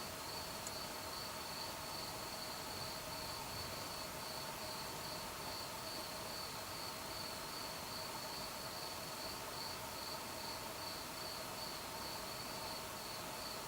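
Crickets chirping on a summer night: a steady high trill pulsing about three times a second. Two faint steady lower tones sound beneath it.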